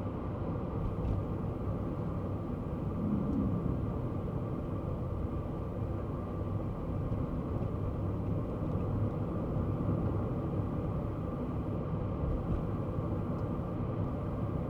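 Kei car driving: a steady low rumble of its small engine and tyre noise on the road.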